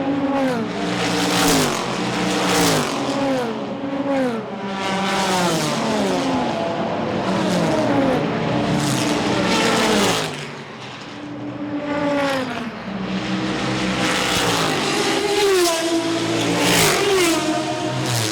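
Race car engines passing one after another at speed, each engine note falling in pitch as it goes by, with a short lull about eleven seconds in.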